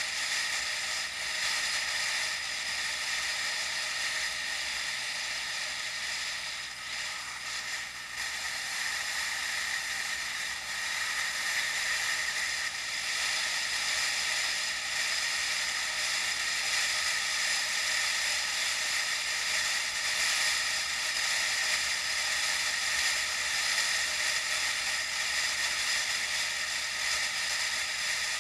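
Steady, thin hiss of wind and road noise from a bicycle ride, picked up by an action camera's small microphone, with hardly any low end.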